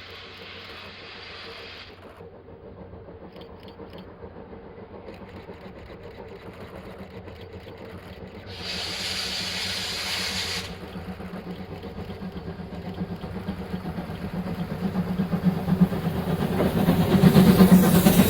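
Chichibu Railway's C58 steam locomotive approaching, its exhaust beats pulsing and growing steadily louder. A two-second burst of hiss comes about nine seconds in.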